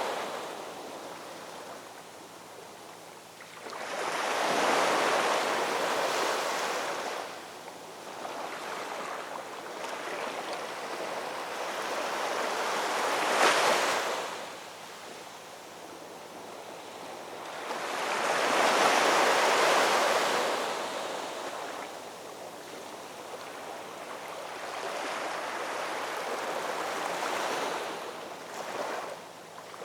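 Ocean surf: waves break and wash in about four times, each one swelling and fading over a few seconds, with one short, sharper crash about halfway through.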